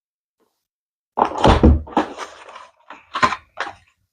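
Cardboard Lego set box being handled and opened: a thump with rustling about a second in, then two short sharp knocks near the end.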